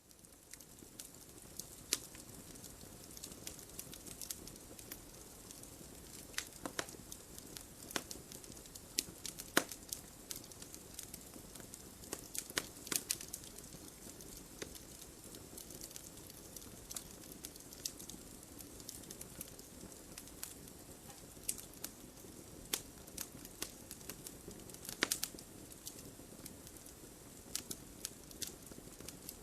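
Wood fire burning in a fireplace, with a soft steady rumble and irregular crackles and sharp pops. It fades in over the first second.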